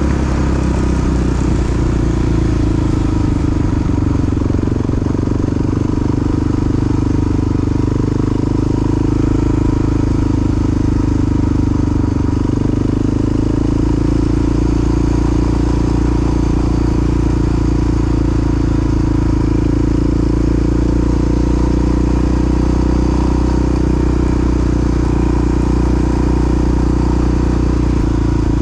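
Honda XR dual-sport motorcycle's large single-cylinder four-stroke engine running steadily under way, its pitch easing down a little a few times before settling again.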